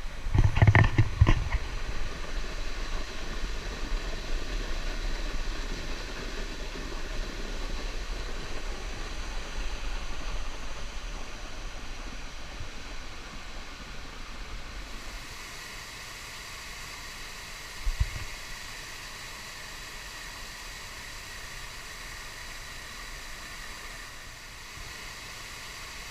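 Steady rush of a waterfall running full after heavy rain, at first with a low rumble under it. About halfway through, the sound changes to a brighter, even hiss, with one brief knock a few seconds later.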